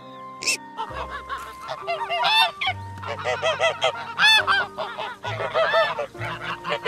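Greylag goose honking, a rapid run of short repeated calls starting about a second in.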